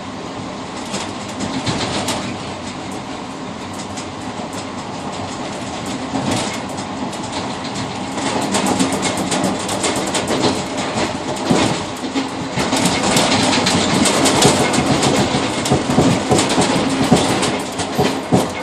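Multiple-unit passenger train running, heard from inside its tail car's rear cab vestibule: a steady rumble with wheels clattering over rail joints. The clatter grows louder and denser from about eight seconds in.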